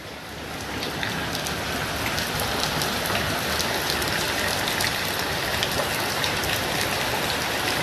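Rain falling and spattering on a hard surface: a steady hiss dotted with many sharp drop ticks, fading in over the first second.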